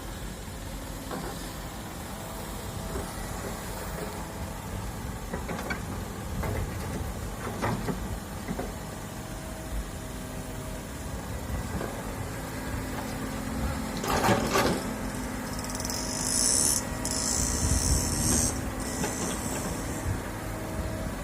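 Hydraulic excavator's diesel engine running under load with a steady hydraulic whine, with scattered knocks as it works. A loud clatter comes about two-thirds of the way through, followed by a few seconds of high hissing.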